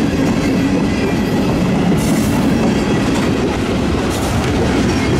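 Freight cars rolling past: a loud, steady rumble of steel wheels on the rails, with a few sharp wheel clacks about two and four seconds in.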